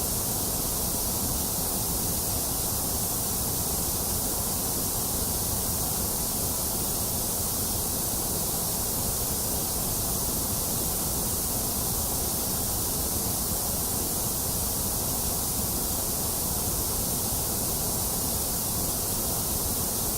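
Steady, unchanging electronic white noise: an even hiss with a full low end and no events or variation.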